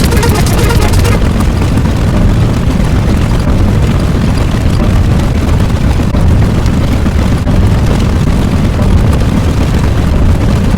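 Loud, continuous deep rumbling sound effect, with a bright hiss on top that drops away about a second in.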